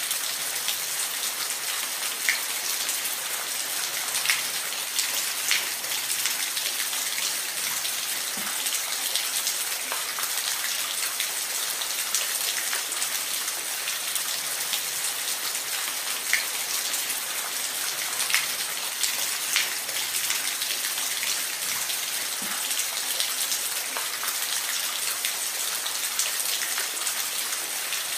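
Falling water: a steady, high hiss with scattered sharp drips and splashes standing out now and then.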